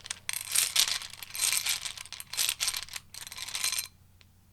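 A deck of tarot cards being shuffled: a dense crackle of card edges in several runs that stops about four seconds in.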